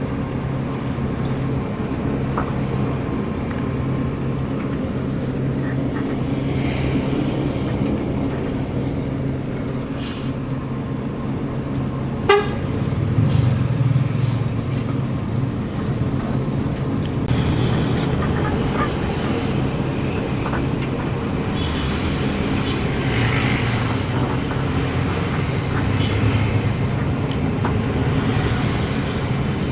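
Steady low drone of a moving bus's engine and road noise, with one short horn toot about twelve seconds in.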